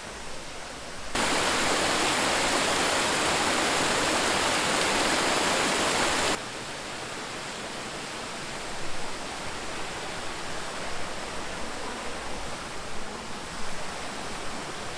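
Steady rush of a waterfall and its rocky stream. It is much louder from about one second in until about six seconds, starting and stopping abruptly, then quieter.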